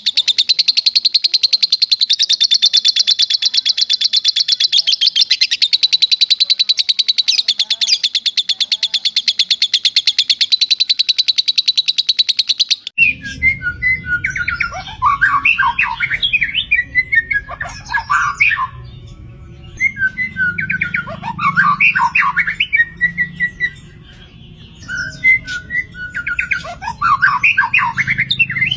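A lovebird's long unbroken chattering trill (the 'tembakan panjang' long shot), a very fast run of high notes lasting about thirteen seconds. It cuts off abruptly to a steady rush of flowing water, with three separate songbird phrases of a few seconds each sung over it.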